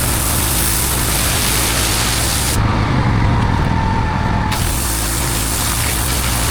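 Pressure washer running, its high-pressure water jet hissing and spraying onto block paving over a steady low machine hum. Near the middle the hiss drops away abruptly for about two seconds while the hum carries on, then comes back.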